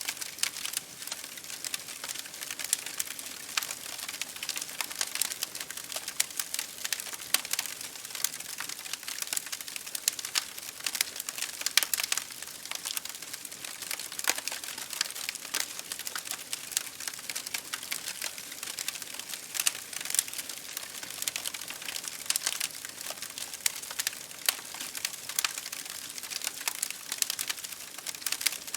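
Wood fire crackling in a fireplace, with many irregular snaps and pops over a steady hiss of rain against a window.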